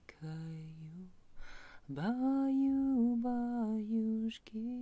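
A woman's voice singing a slow tune without accompaniment, in long held notes that step gently down: a short phrase, a breath, then a longer phrase from about two seconds in.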